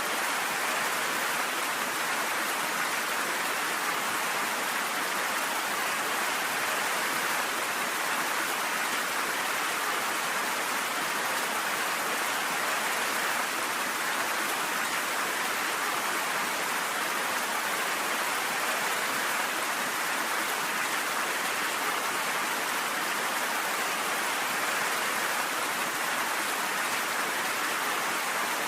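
Steady rain falling, an even hiss of drops with no breaks or thunderclaps.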